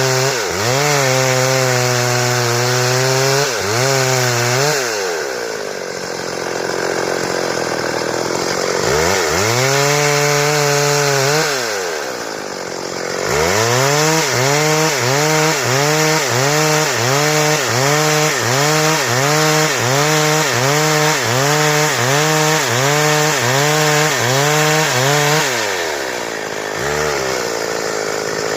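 Stihl two-stroke chainsaw cutting timber into boards. The engine runs at high revs, drops in pitch and comes back up several times. For about twelve seconds in the second half its pitch dips and recovers in a quick, even rhythm, a little more than once a second.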